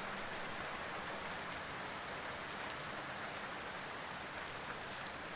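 Steady rainfall, an even hiss of rain with no breaks, with a held music tone dying away just at the start.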